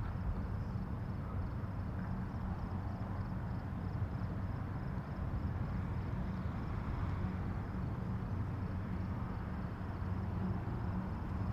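Steady outdoor nature ambience: a constant low rumble with a faint hum, and faint high insect chirring pulsing quickly and evenly throughout.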